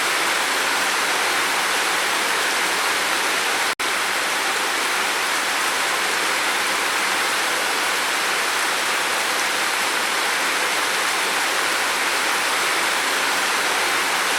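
Steady, dense rain falling on a roof, an even hiss with no distinct drops, that cuts out for an instant about four seconds in.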